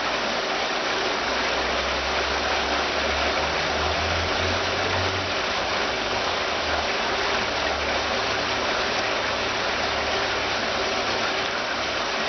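Water from a stepped cascade fountain pouring down its steps in a steady splashing rush. A low engine-like hum runs underneath for most of the time, louder a few seconds in.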